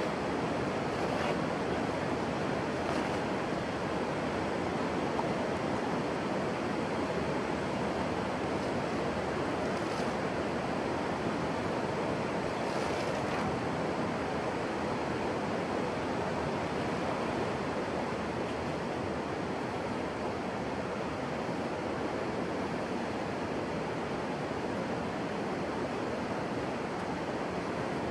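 Steady rush of flowing water, unbroken and even, with a few faint clicks.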